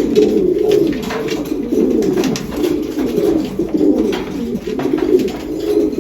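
Domestic racing pigeons cooing, several overlapping coos rising and falling in pitch without a break.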